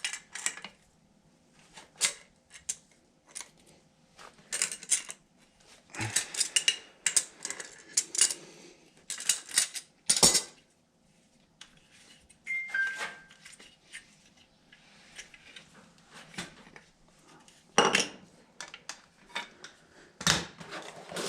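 Metal tools and parts clinking and clattering in irregular bursts, as in hands-on work with wrenches and fittings. A short two-note squeak or beep comes about halfway through.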